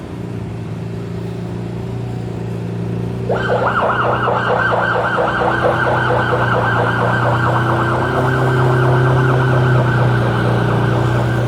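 Emergency vehicle siren cutting in about three seconds in with a fast warbling yelp, its pitch swinging rapidly up and down, over a steady low hum of vehicle engines in traffic.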